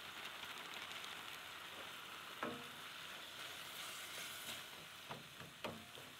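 Ground meat and diced onions frying in a skillet, a steady faint sizzle, stirred with a wooden spatula. A few light knocks of the spatula against the pan come near the end.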